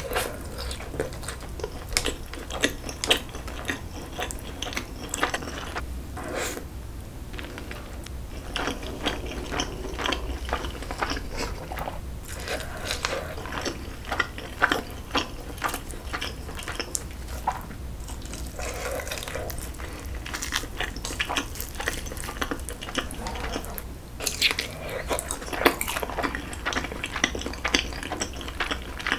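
Close-miked chewing and wet mouth sounds of a person eating spicy kimchi-braised pork back ribs, full of short, sharp clicks.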